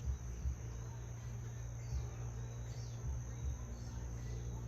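Steady high-pitched insect chorus, like crickets, over a low steady rumble, with a few faint short chirps around the middle.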